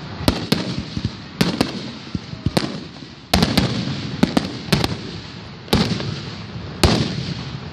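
Aerial firework shells bursting overhead in quick succession: about a dozen sharp bangs, several in quick doubles, each trailing off in a rolling echo.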